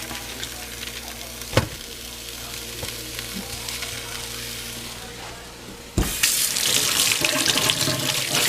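A single sharp click about a second and a half in over a low steady hum, then about six seconds in a kitchen tap is turned on and water runs hard into the sink.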